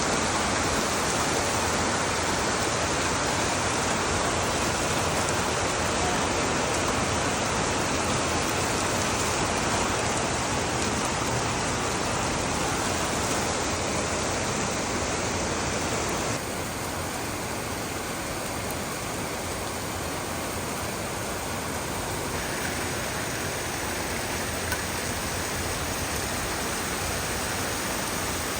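Heavy rain falling in a steady, even hiss. About sixteen seconds in it abruptly becomes a little quieter and duller, and shifts again slightly near twenty-two seconds.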